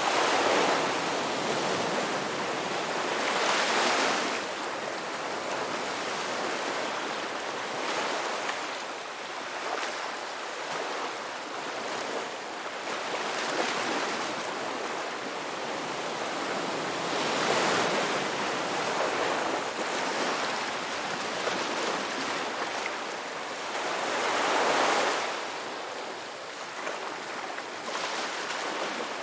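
Ocean waves breaking and washing on a shore, a steady surf hiss that swells with each wave every few seconds.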